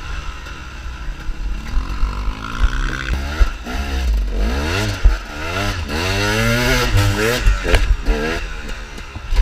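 Dirt bike engine revving up and down again and again over a steady low rumble.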